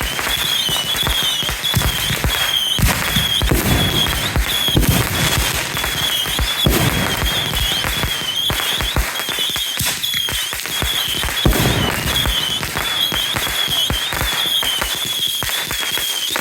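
Fireworks going off in rapid, dense succession: a continuous barrage of pops and bangs, with a high warbling whistle that keeps coming back over it.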